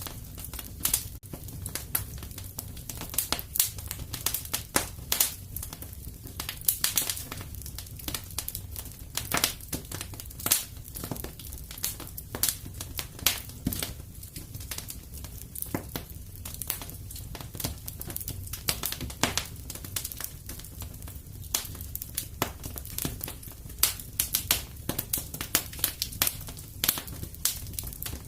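Fire in a fireplace crackling, with many irregular sharp pops and snaps over a low steady rumble.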